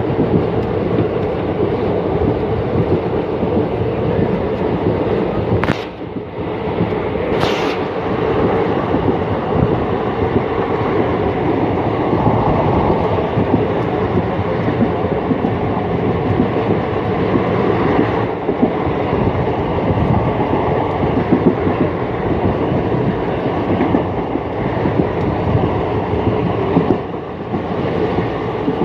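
Passenger train running at speed, heard from an open coach doorway: a steady rumble and rattle of wheels on the track. Two brief sharp noises come about six and seven and a half seconds in.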